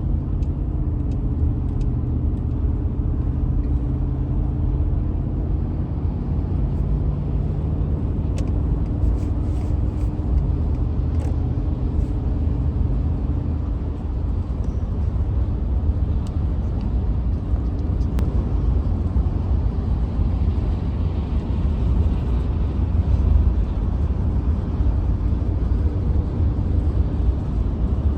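A vehicle being driven: steady low engine and road rumble. An engine hum shifts pitch a couple of times in the first half, then merges into the rumble.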